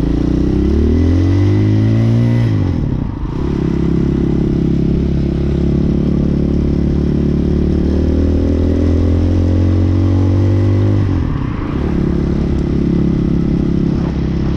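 Hawk 250cc motorcycle engine accelerating under way. The revs climb, drop about three seconds in as it shifts up, climb slowly again, and drop once more at another shift around eleven seconds in.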